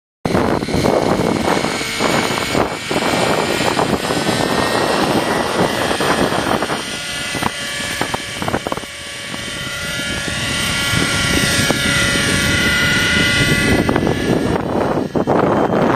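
Raptor 50 nitro RC helicopter flying, its engine note rising and falling, under heavy wind noise on the microphone.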